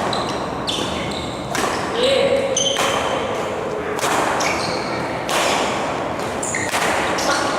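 Badminton rally: rackets strike the shuttlecock about once a second, each hit ringing in the hall, with short shoe squeaks on the court floor between hits and voices in the background.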